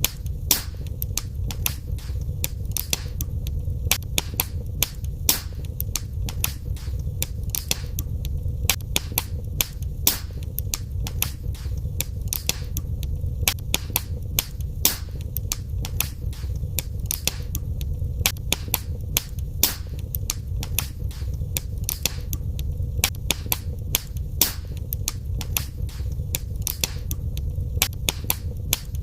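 Wood fire crackling in a fireplace: frequent sharp pops and snaps, several a second at irregular intervals, over a steady low rumble of the flames.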